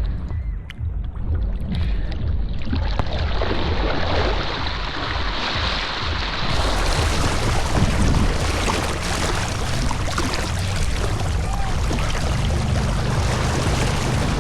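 Wind buffeting the microphone over a rushing wash of water, growing fuller and louder about three seconds in.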